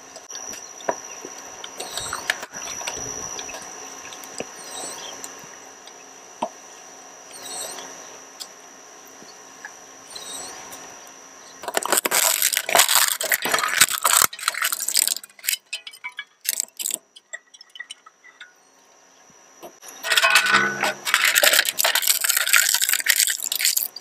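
Shredder chewing up a large plastic toy truck: the motor hums steadily, then the plastic loudly crackles and cracks between the blades in two bursts, about halfway through and again near the end, with scattered snaps between them.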